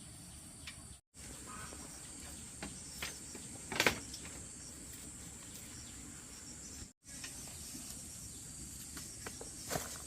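Insects, likely crickets, drone in a steady high tone. A few short knocks from work sound over it, the loudest about four seconds in.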